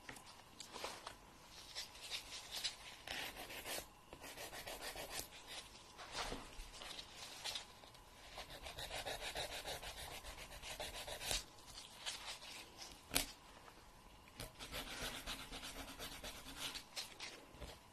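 Nails being ground: repeated rasping strokes a second or two long, with short pauses between them and a faint steady tone underneath. A single sharp click about two-thirds of the way through is the loudest moment.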